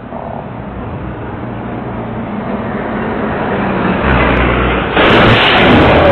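Vehicle engine and road noise growing steadily louder, with a sudden jump in loudness about five seconds in.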